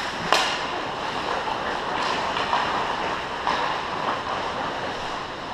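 Ice hockey game sound: a steady wash of rink noise and crowd, with sharp knocks of stick and puck, the loudest about a third of a second in and lighter ones about two and three and a half seconds in.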